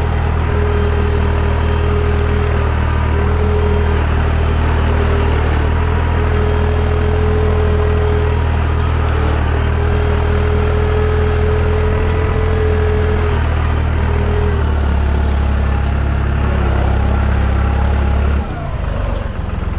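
Deutz 55F tractor's diesel engine running steadily, pulling a cultivator through the field. Its note shifts about three-quarters of the way in, then drops and gets a little quieter near the end.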